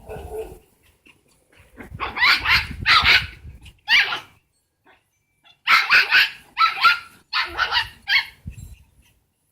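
Papillon barking in sharp, high-pitched bouts: a few barks about two seconds in, then a quicker run of barks from about six seconds. It is an upset small dog protesting over a stolen chew treat.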